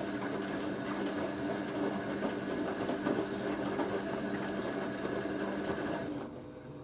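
Hoover A3060 Electronic 1100 washing machine's wash action: its motor turns the drum with a steady hum and light clicks from the tumbling load, then the motor stops about six seconds in.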